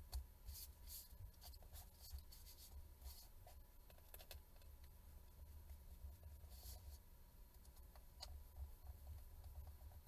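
Near silence: faint, scattered light clicks and scratches of small handling over a steady low hum.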